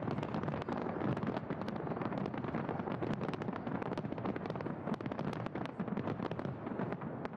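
Fireworks barrage: many shells bursting in rapid succession, a dense continuous crackle of bangs over a steady rumble.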